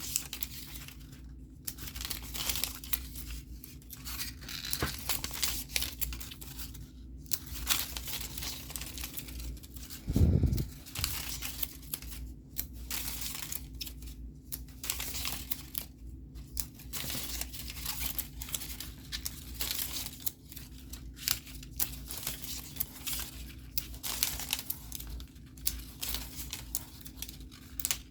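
Paper pages being handled, crinkling and rustling in repeated short bursts, with one dull thump about ten seconds in.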